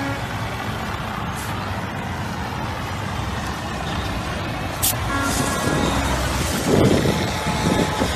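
Road traffic noise with vehicles running. There is a sharp click about five seconds in, a short horn-like toot just after it, and a louder surge of vehicle noise near the end.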